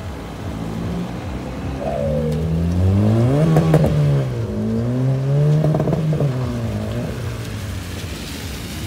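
Car engine revving hard twice as it drives off round a roundabout: the pitch climbs to a peak and drops, then climbs and drops again, with a few sharp cracks at the first, loudest peak.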